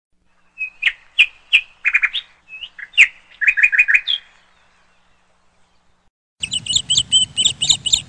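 Birds chirping: a quick series of sharp chirps and short calls in the first half, then after a pause a denser run of higher, rapid chirps over a low hiss from about two-thirds of the way through.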